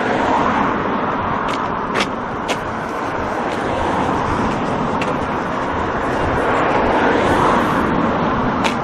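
Road traffic passing on a street: a steady noise of tyres and engines that swells near the start and again about seven seconds in, with a few sharp clicks scattered through it.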